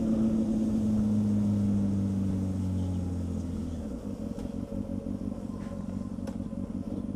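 Honda CB600F Hornet's inline-four engine running as the motorcycle slows. About four seconds in it drops to a lower, rapidly pulsing rumble at low revs as the bike rolls off toward a stop.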